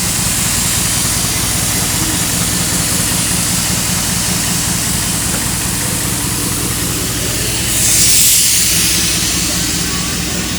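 Ford 5.0 Coyote V8 engine running steadily at a constant speed, with a brief hiss about eight seconds in.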